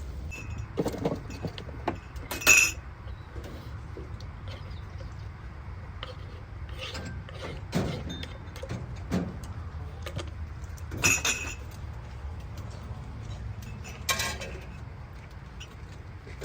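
Scattered clinks and knocks of objects being handled, three of them louder, over a steady low hum.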